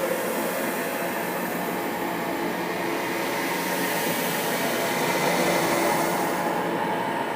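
Steady dark droning ambience: a hissing, rumbling wash with faint low held tones under it, swelling a little about five seconds in.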